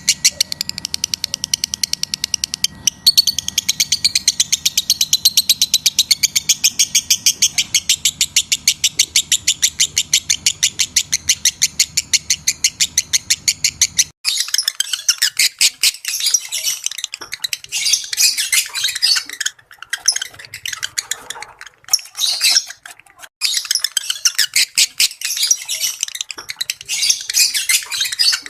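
Lovebirds in breeding condition chattering: a fast, even run of sharp, high chirps, then about halfway through an abrupt change to busier, irregular chattering with short pauses.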